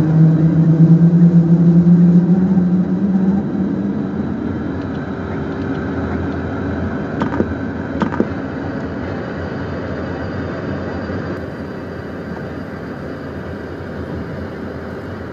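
Steady engine noise inside the cockpit of a Beechcraft Premier 1A twin-turbofan business jet. A loud low drone rises slightly in pitch and fades out over the first few seconds, and two sharp clicks come about halfway through.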